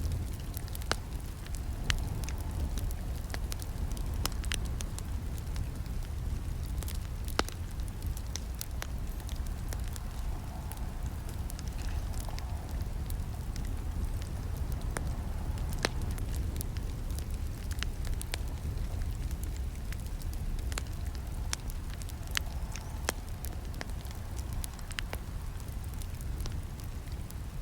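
Campfire burning: a steady low rumble of flames with irregular sharp crackles and snaps of burning wood, a few louder pops among them.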